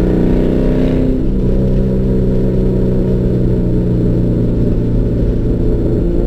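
Car engine under power, heard from inside the car on a racetrack straight: its pitch drops suddenly about a second in, then holds a steady drone at constant revs.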